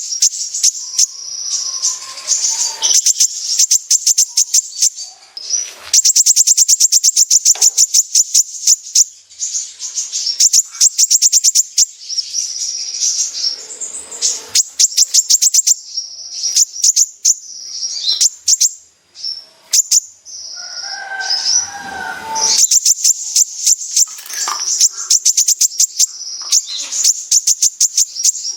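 Kolibri ninja sunbird singing its fast 'besetan' song: long, rapid runs of sharp, high ticking notes, broken by short pauses, with a lower warbled phrase about three-quarters of the way through.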